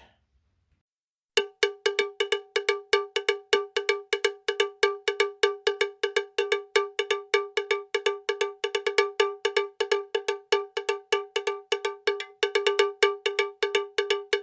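Rapid repeated strikes of a cowbell-like metal bell, about four to five a second, starting about a second and a half in.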